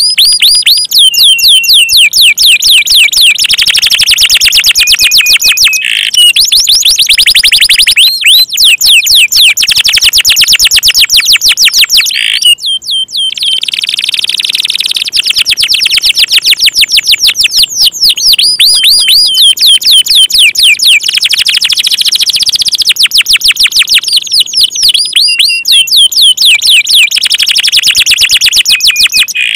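Canary singing loudly in fast, continuous rolls of rapidly repeated chirps, with a few brief breaks.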